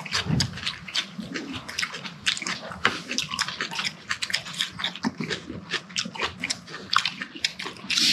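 People chewing and smacking their lips over food close to the microphone: a quick, irregular run of wet mouth clicks.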